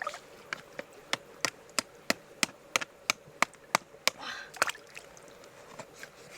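A regular series of about a dozen sharp taps, roughly three a second, followed by a brief burst of hissing noise about four seconds in.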